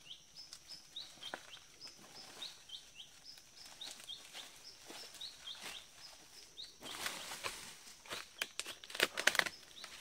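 A forest bird repeating a short, high chirp about twice a second, over crackling of dry leaf litter and brush underfoot as someone scrambles down a slope, the crackling louder around seven and nine seconds in. A faint steady high hum of insects lies underneath.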